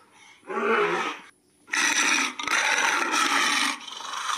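Lion roaring: a short roar about half a second in, then after a brief pause a longer, rougher roar that runs on.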